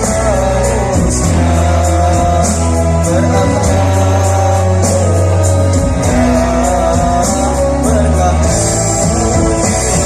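A choir song with full instrumental backing: held bass notes and a steady ticking beat under a sung melody.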